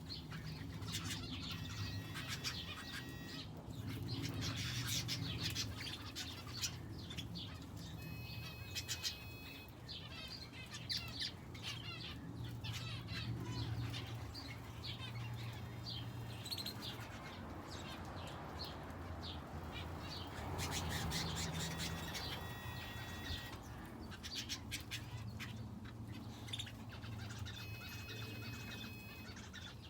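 Aviary finches and a canary chirping and calling continuously in many short, high notes, with some held whistled notes and occasional wing flutters, over a low steady hum.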